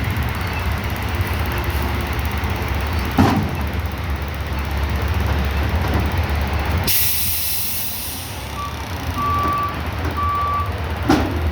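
Peterbilt 520 front-loader garbage truck's diesel engine running, with a metal clank about three seconds in. Around seven seconds a sharp hiss of air from the air brake, then the engine eases and the reversing alarm beeps three times at one pitch, followed by another clank near the end.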